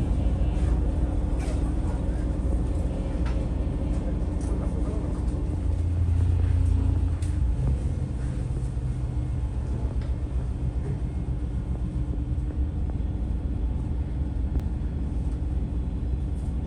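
Inside the cabin of a diesel railcar under way: a steady low running rumble with a faint hum and a few scattered clicks, swelling briefly about six seconds in.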